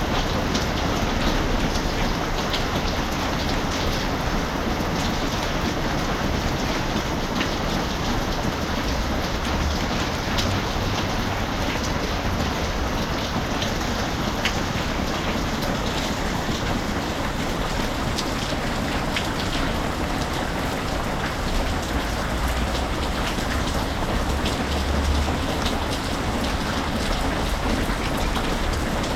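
Steady rain falling, with scattered sharp ticks of individual drops over an even hiss, and a couple of brief low rumbles.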